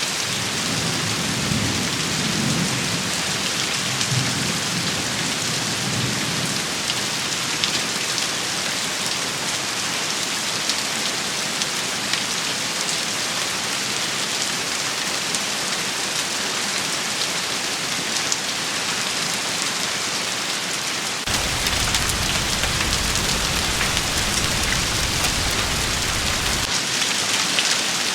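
Steady heavy rain shower, a dense hiss of drops on surfaces. Soft low rumbles come in the first few seconds, and a deeper low rumble starts suddenly about three-quarters of the way through and stops just as suddenly about five seconds later.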